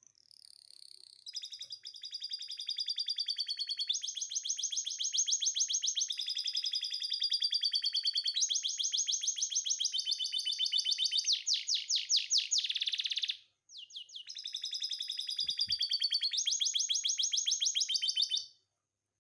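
Domestic canary in breeding condition singing a long song of rapid, high trills, switching from one trill to the next every second or two, with a brief break about two-thirds of the way through.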